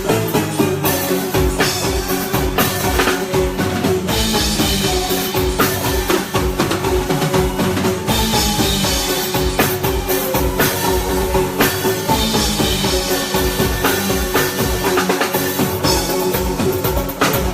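Live band playing with a full drum kit, a steady beat of kick and snare with rimshots under sustained bass and keyboard notes.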